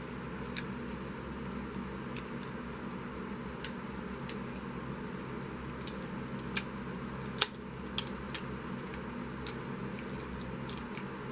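Hands working on a handmade paper book, with scattered small clicks and taps from paper and tools, the sharpest about seven seconds in, over a steady room hum.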